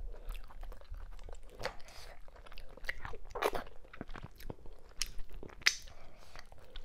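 Close-miked chewing of a mouthful from a meal of fufu with okra and ogbono soup, mackerel and cow skin: wet, irregular smacking and clicking mouth sounds, with a few louder smacks in the second half.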